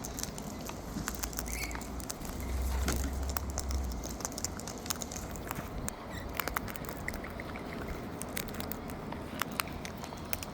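Irregular light clicks and taps, typical of a bird's beak nibbling at food held out by hand, with a brief faint chirp. A low rumble rises and fades between about two and a half and four seconds in.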